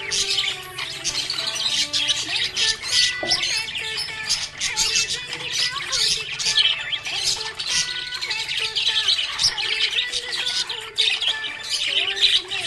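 Small pet parrots chirping rapidly and without pause, with high, short calls, over background music with held notes.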